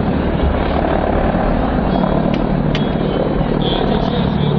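Mi-28NT attack helicopter in a display flight: steady, loud noise from its rotors and twin turboshaft engines.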